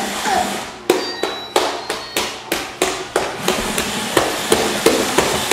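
Rapid series of sharp knocks, about three a second, on the hard plastic of a Roomba robot vacuum, as if it is being banged on repeatedly.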